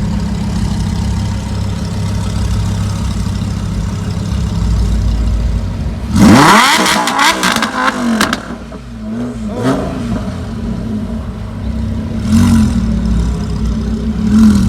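A car engine idles steadily, then is revved hard about six seconds in, its pitch climbing quickly, with a run of sharp cracks as it comes back down. Three shorter throttle blips follow near the end.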